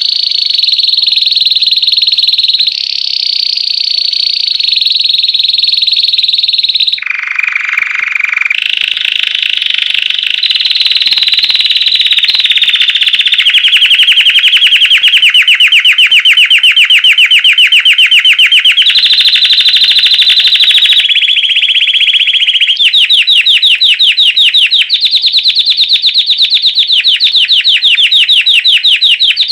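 Belgian canary singing loudly without a break: a song of rapid rolling trills, each held for a few seconds before switching to the next. A lower, deeper phrase comes about seven seconds in, and slower trills with each note clearly separate come near the end.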